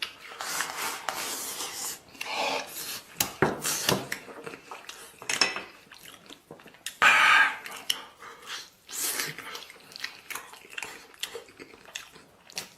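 A person eating from a dish: irregular clinks and scrapes of utensils on the bowl, mixed with chewing, with a louder burst about seven seconds in.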